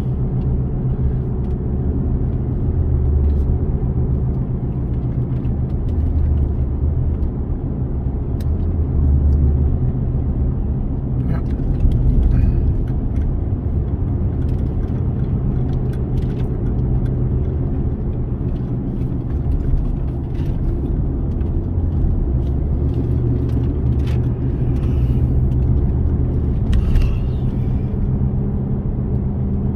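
Car driving, heard from inside the cabin: a steady low drone of engine and road noise, with a few faint light knocks now and then.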